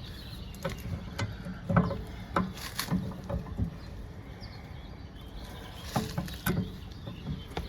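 Scattered light clicks and knocks of tools being handled at the water heater as the new anode rod is snugged in, over a low steady hum.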